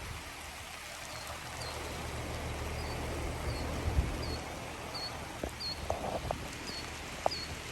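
A small bird chirping repeatedly, about two short chirps a second, over a steady outdoor noise with a low rumble and a few faint clicks.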